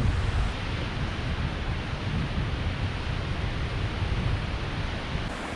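Steady rushing roar of Goðafoss, a large horseshoe-shaped waterfall, with wind buffeting the microphone as a low rumble that eases near the end.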